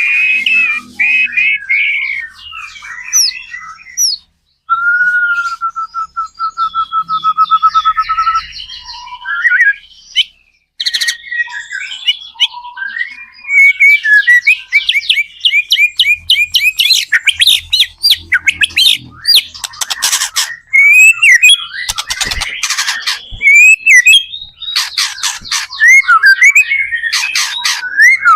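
White-rumped shama (murai batu) in full song, loud and varied. It runs through whistled phrases, a fast even trill about five seconds in, and in the second half long runs of rapid, sharp repeated notes.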